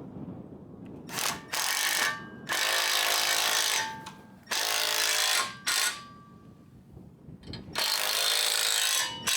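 Power drill running in five bursts with a motor whine, one of them very short, with pauses between.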